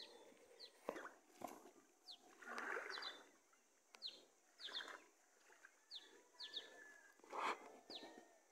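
Small birds chirping faintly: short, high calls that slide downward, repeated about once a second, some in quick pairs, with a few soft knocks and rustles between them.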